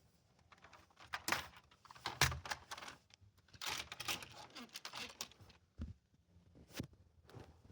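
Irregular small clicks and clatter of hard objects, with short pauses between them.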